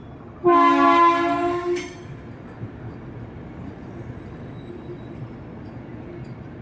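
Vande Bharat Express train horn sounding one loud blast of about a second and a half, beginning about half a second in, followed by the steady rumble of the train running into the station.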